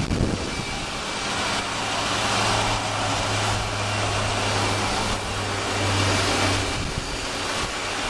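Steady engine and machinery noise of an airport apron: a constant rush with a low hum underneath that stops near the end.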